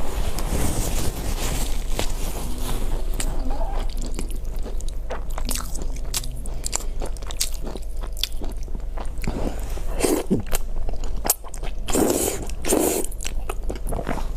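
Close-miked eating: biting and chewing with many small wet mouth clicks, and a couple of longer mouth sounds about ten and twelve seconds in. A steady low hum runs underneath.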